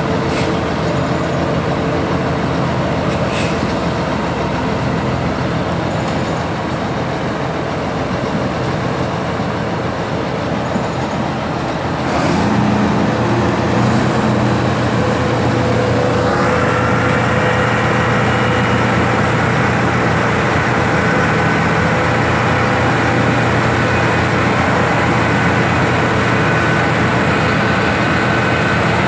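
Heavy diesel engines of a combine harvester and a loaded Scania 124 truck running hard under load as the truck is towed out of mud. About twelve seconds in the engine note gets louder, and a few seconds later a higher whine joins in.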